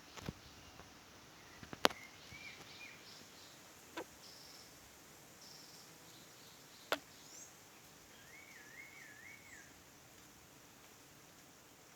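Birds calling in the background: short high chirps and a wavering trill a little past the middle. Four sharp clicks stand out, the loudest a little under two seconds in and another near seven seconds.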